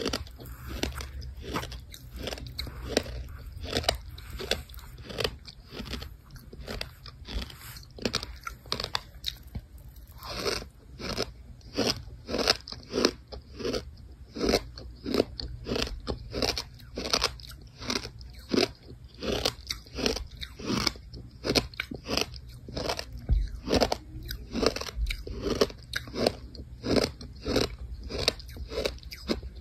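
A person chewing brown kinetic sand: a steady run of gritty crunches, about two a second.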